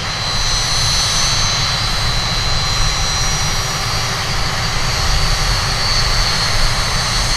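Red Arrows BAE Hawk T1 jets departing at takeoff power, their Rolls-Royce Adour turbofans giving a steady, loud jet roar with a high whine on top. It is surprisingly loud for such small jets.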